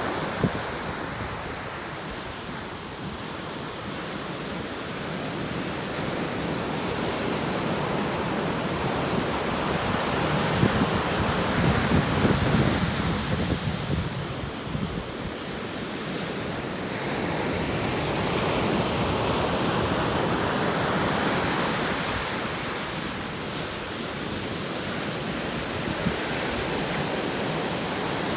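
Atlantic Ocean waves breaking and washing on the shore in slow swells every several seconds, with wind on the microphone.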